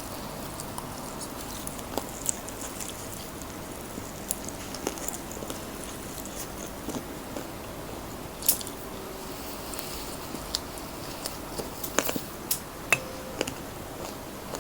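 Close-miked eating of crispy fried chicken: chewing with scattered sharp crunches of the fried coating, and a quick run of crunches near the end.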